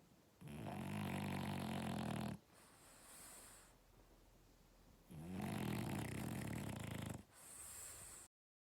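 French Bulldog puppy snoring in his sleep: two long snores of about two seconds each, about four seconds apart, each followed by a quieter, hissing breath.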